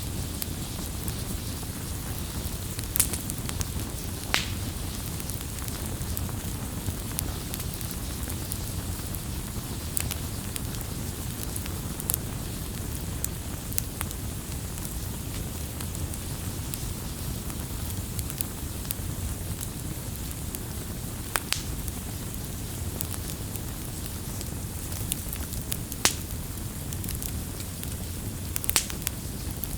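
Wood campfire crackling: a steady low rush of burning with frequent sharp pops and snaps, a few of them louder.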